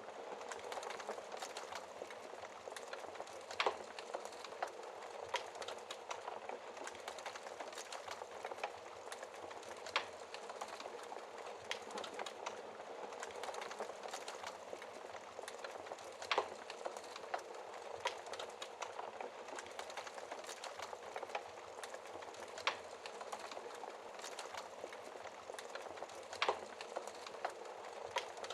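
Wood fire burning in a fireplace, crackling steadily with a handful of sharper, louder pops every few seconds.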